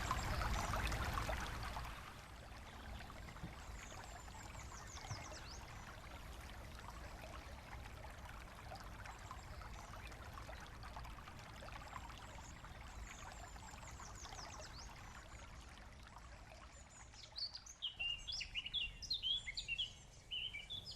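Rushing water of a small brook, louder for the first couple of seconds, then a faint steady outdoor hush with scattered high bird chirps. Near the end a songbird sings a run of quick high notes.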